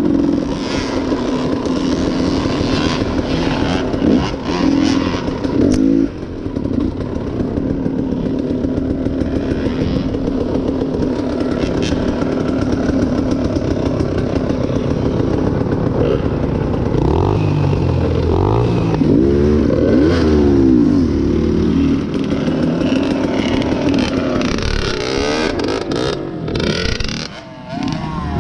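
Dirt bike engine running on a trail ride, revving up and down as the throttle opens and closes, with a run of quick rises and falls in pitch about two-thirds of the way through.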